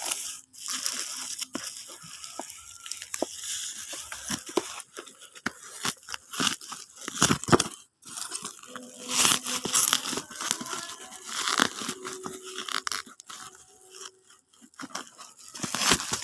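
Product packaging being torn open and handled: irregular tearing, crinkling and rustling with small knocks, louder in bursts near the middle.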